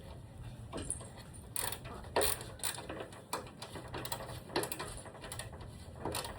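Irregular clicks and knocks of hand work on a broken ladder under repair, at uneven intervals.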